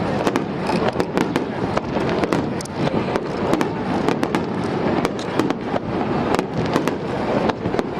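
Fireworks going off in quick succession: many sharp bangs and crackles a second over a dense, steady rumble.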